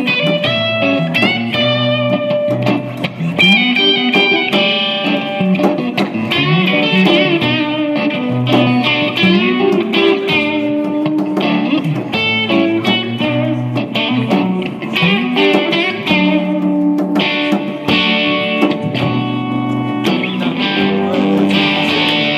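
Live band music with no singing: a guitar-led instrumental passage of quick single-note lines over chords and a steady bass.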